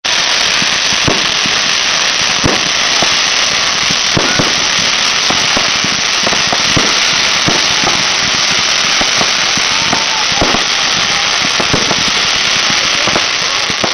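Fireworks going off: many sharp bangs and pops at irregular intervals over a continuous loud crackling hiss.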